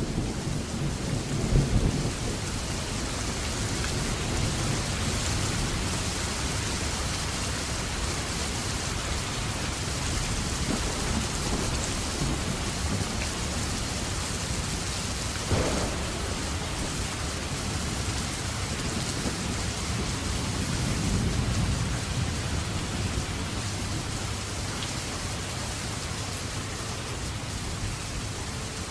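Steady rain falling, with low rolls of thunder, loudest in the first two seconds and swelling again about two-thirds of the way through. A single short knock about halfway.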